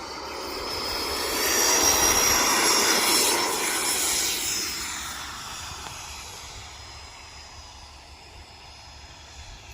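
Freewing MiG-29 Fulcrum RC model jet's electric ducted fans making a fast pass: a high whine and rush swell to a peak about two to three seconds in, then fade as the jet moves away.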